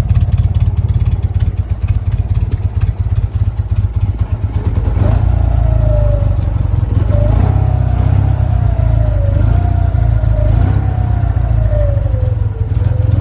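1968 BMW R60/2's flat-twin engine running shortly after a cold start. About five seconds in it grows louder and a wavering tone rises and falls in pitch.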